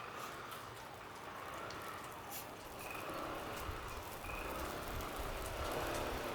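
Footsteps crunching and squeaking in fresh snow, with a car's engine and tyres growing louder from about four seconds in.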